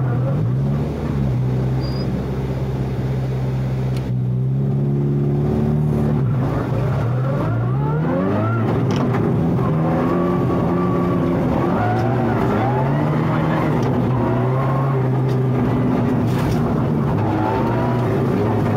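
Rally car engine heard from inside the cabin, its pitch repeatedly climbing under throttle and dropping back, with a steep rise about eight seconds in.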